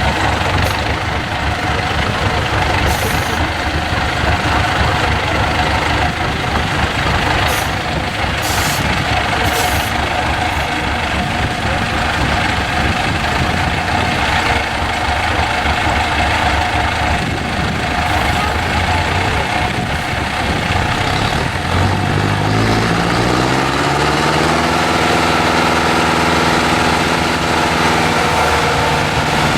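IFA W50 truck's diesel engine running at low revs, then revving up about three-quarters of the way through and holding the higher speed. A few short hisses come in the first third.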